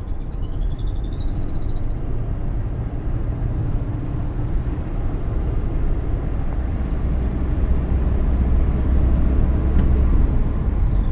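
GAZelle Business van running with a low engine rumble and a high whistle that bends up and down in pitch. The whistle is plain in the first second or two, fades, and returns near the end, while the rumble grows somewhat louder in the second half. The whistle is an unexplained one that the owner is asking about.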